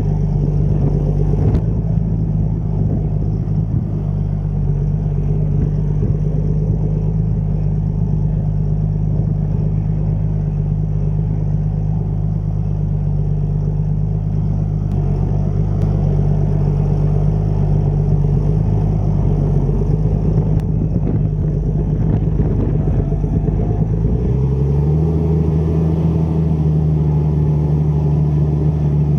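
Deutz-Fahr 6160 TTV tractor's six-cylinder diesel engine running at a steady speed. About five seconds before the end, its note rises a little in pitch and holds there.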